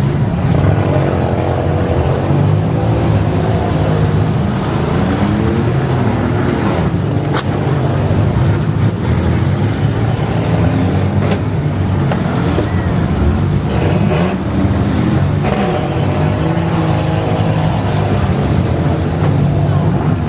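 Several demolition-derby minivan engines running at once, revving up and down unevenly, with a few sharp bangs of cars colliding through the middle.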